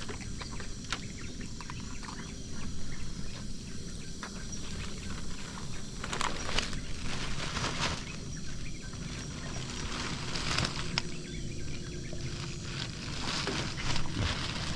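Outdoor riverside ambience: a steady hiss with faint thin high tones like insects, broken by a few sharp rustling knocks about six to eight seconds in, around ten seconds in and near the end.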